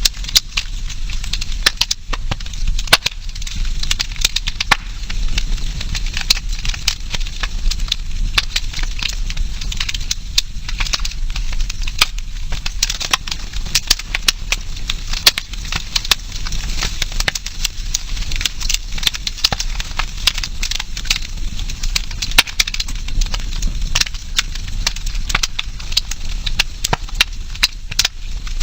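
Campfire burning: wood crackling, with frequent sharp pops of varying loudness over a steady hiss and a low background rumble.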